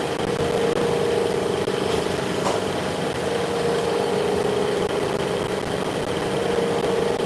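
A workshop machine running with a steady drone, with a faint tick about two and a half seconds in.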